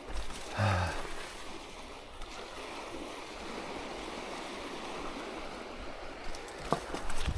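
Steady rush of moving water, with a short bump about a second in and a few sharp clicks near the end.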